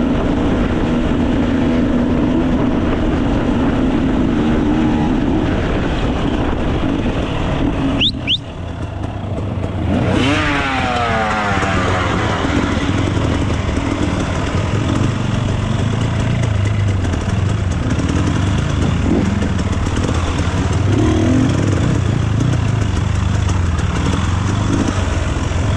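Enduro dirt bike engine running under changing throttle. About eight seconds in the engine note drops off briefly, then revs back up in a rising sweep and settles into a lower, steady drone.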